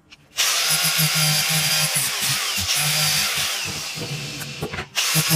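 A power tool running, starting suddenly about half a second in with an uneven pulsing hum under a hiss. It stops briefly near the end and starts again.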